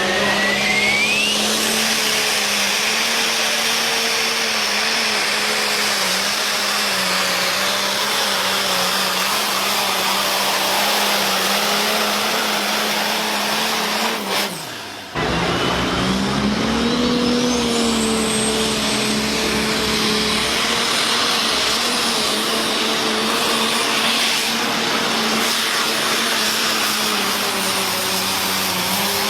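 International Harvester pulling tractor's engine running hard at high, steady revs, with a thin whistle rising in pitch near the start and again a little past halfway. The sound breaks off briefly about halfway, then resumes with the engine note swelling up and settling.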